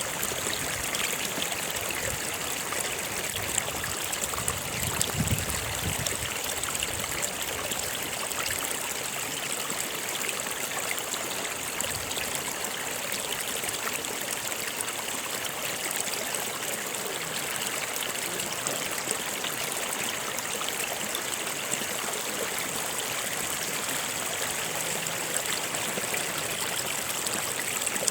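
Stream of water flowing steadily over rocks, a continuous rushing babble with small trickles and splashes.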